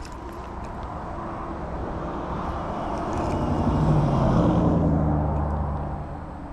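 A motor vehicle passing by: its engine and tyre noise grow louder, peak about four seconds in, then fade away.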